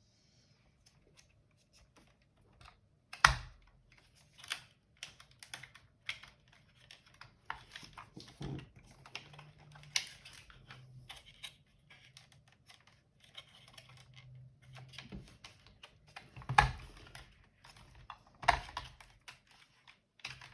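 Plastic parts of a Eufy RoboVac robot vacuum being handled and pried at during disassembly: irregular clicks, taps and knocks, with a sharper knock about three seconds in and two more near the end.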